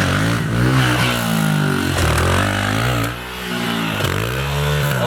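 Pit bike's small single-cylinder engine revving up and down several times as the rider runs up to a jump, the revs and loudness dropping briefly a little after three seconds before climbing again.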